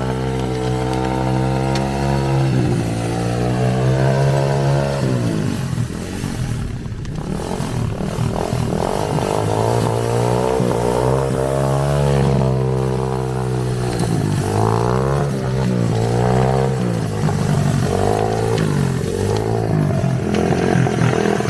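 Dirt-bike engine of a drift trike revving up and down under throttle, falling off briefly about six to eight seconds in, then revving hard again.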